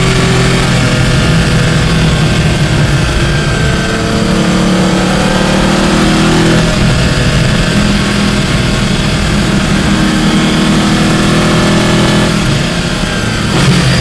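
Porsche 718 Clubsport race car's flat-six engine heard from inside the cabin, running hard at speed on track, its pitch rising and falling in steps with the throttle and gears, over steady road and wind noise. Near the end it drops briefly, then a short loud bump.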